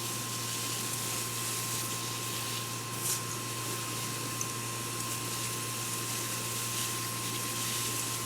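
Garden hose spraying water in a steady hiss, with one short louder moment about three seconds in.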